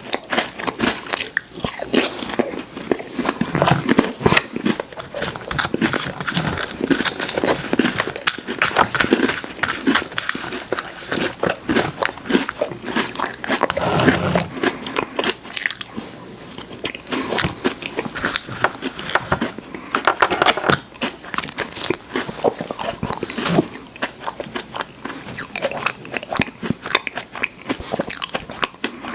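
Close-up mouth sounds of a person biting and chewing crunchy cookies: dense, irregular crunching and crackling.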